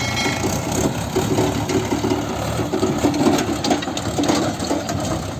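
Heavy diesel engine running steadily with an even pulsing drone.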